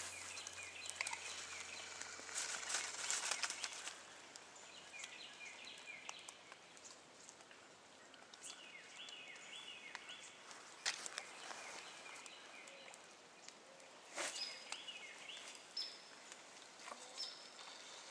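Faint outdoor ambience: a songbird repeating a short phrase of high chirping notes every few seconds, with scattered clicks and knocks.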